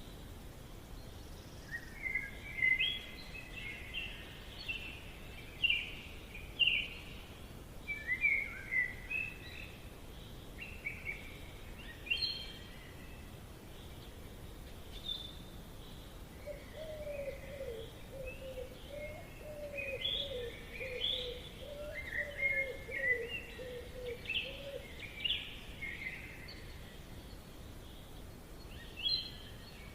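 Forest birds chirping in quick clusters of short high notes over a steady faint hiss. A little past the middle, a lower wavering call runs beneath them for about nine seconds.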